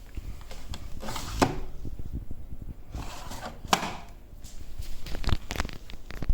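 Several knocks and clicks with small rattles between them, from parts of an LG washing machine being handled, opened and shut.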